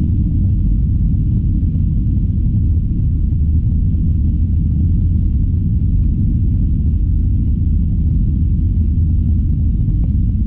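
Steady low rumble inside the cabin of an Airbus A321-211 airliner: its engines running and the airframe humming, with no change in pitch or level.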